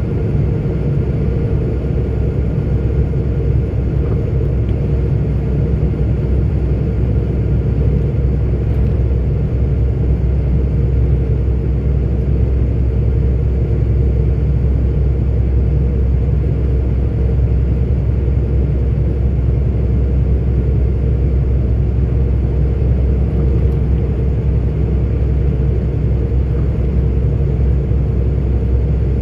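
Steady low drone of a 44-ton articulated lorry heard from inside its cab while cruising, engine and road rumble unchanging throughout.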